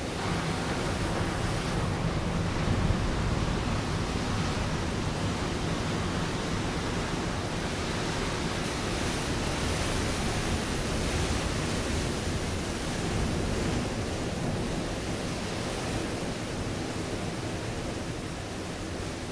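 Ocean waves breaking on a rocky shore: a continuous rush of surf that swells and eases slowly, a little louder a few seconds in.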